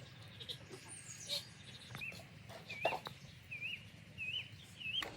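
A bird calling over and over: five short, wavy whistled notes, evenly spaced in the second half, with a falling chirp from another bird earlier on. A few light knocks, the loudest about halfway through.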